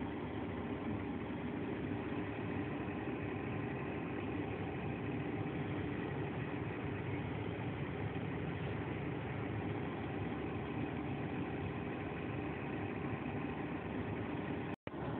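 Combine harvester running steadily: an even engine and machinery drone. It breaks off for an instant near the end.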